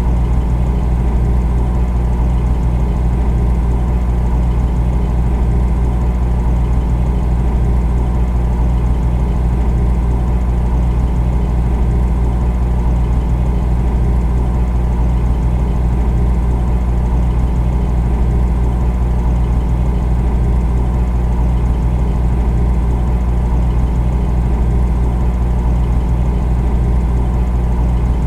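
Refrigerator running: a steady, loud low hum from its compressor, unchanging throughout.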